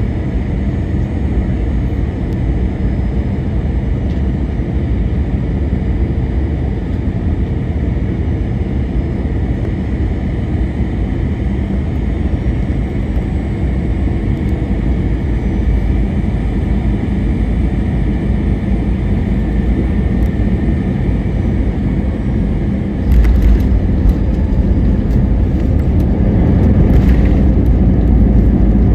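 Airbus A321-200 cabin noise in the last seconds of the approach: a steady engine and airflow rush. About 23 seconds in, a sudden thump and a much louder low rumble begin, the sound of touchdown and the wheels rolling on the runway. The rumble grows stronger toward the end.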